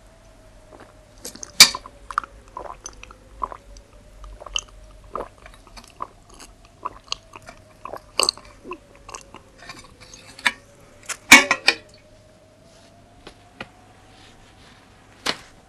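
Hands scraping and scooping dry sand: irregular short crunches and scrapes, two of them louder, about a second and a half in and near eleven seconds, over a faint, slowly wavering tone.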